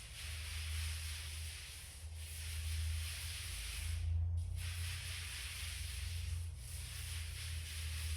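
Paint being spread on a wall in repeated strokes: a hissing rub about every two seconds, with short pauses between strokes. A steady low hum runs underneath.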